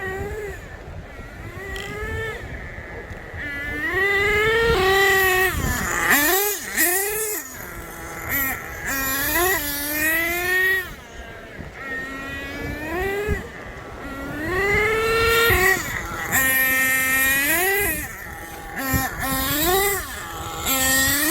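Small nitro RC monster-truck engines revving up and down again and again. The high buzzing pitch climbs and falls every second or two as the throttle is blipped.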